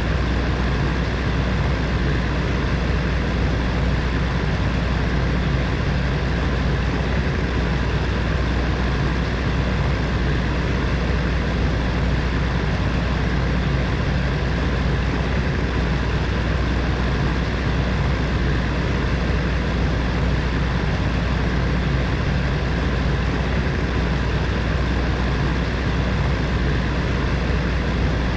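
Space heater's fan running steadily: an even whoosh of moving air over a low, constant hum.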